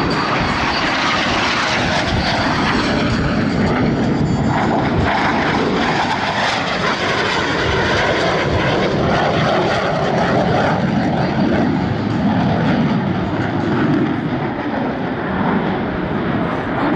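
Loud, sustained jet noise from the two Blue Angels solo F/A-18 Super Hornets' twin-turbofan engines as they fly their low passes during the opposing inverted rolls.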